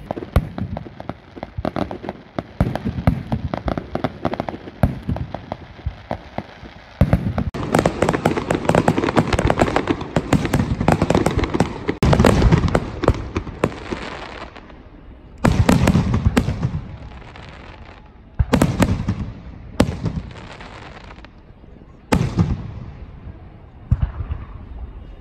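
Aerial firework shells bursting with dense crackling, many sharp cracks. The heaviest run lasts from about seven to fourteen seconds in, followed by separate bursts every few seconds.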